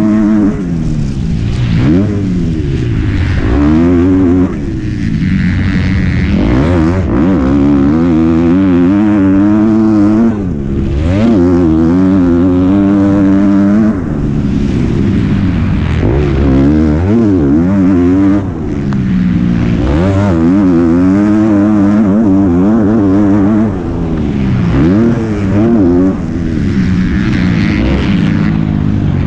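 An MX2-class motocross bike's engine heard up close from onboard, revving up and falling back again and again as the rider accelerates, shifts and rolls off the throttle around the track. There are brief drops in level every few seconds.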